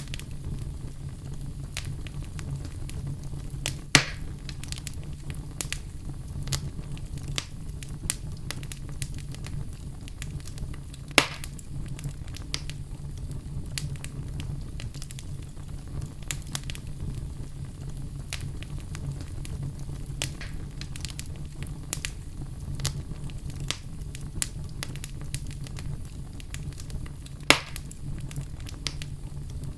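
Wood fire burning in a fireplace: a steady low rumble of flames with scattered crackles and three louder pops from the burning logs.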